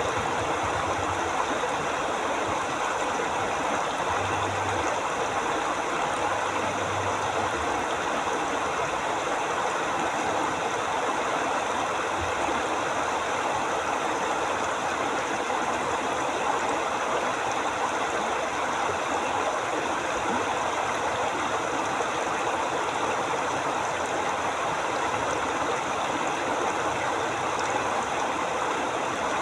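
Forest river flowing steadily: a constant rushing and gurgling of water.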